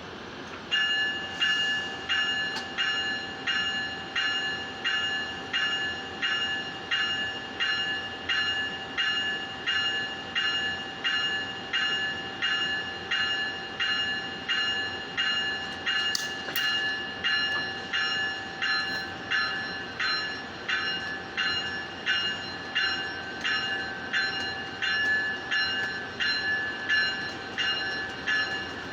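A train warning bell ringing steadily, about three strokes every two seconds, starting just under a second in.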